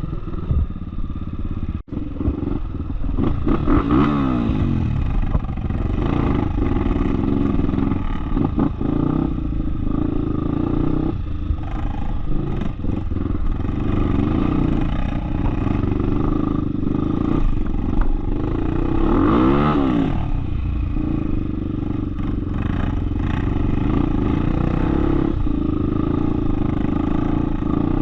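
Off-road trail motorcycle engine running continuously under riding load, with engine speed swinging up and back down twice: a few seconds in and again past the middle. Rattling and clatter run along with it.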